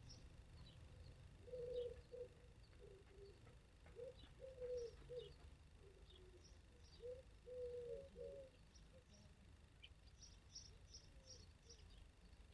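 A dove cooing faintly in a run of short low phrases, with thin high chirps of small birds scattered through it that bunch together near the end.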